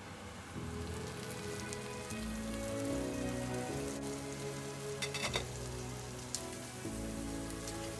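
Pork ribs with chopped onion and garlic sizzling in oil in an open frying pan, the simmering water now cooked off so the meat is frying in its fat. Soft background music with held notes plays underneath, and a few sharp clicks come about five seconds in.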